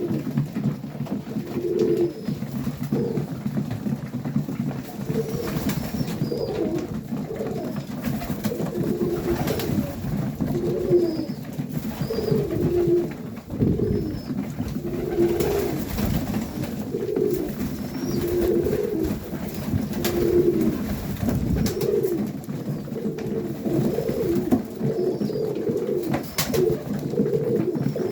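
A flock of domestic highflyer pigeons cooing, short low coos overlapping and repeating about once a second, over a steady low rumble. Faint high chirps come in now and then.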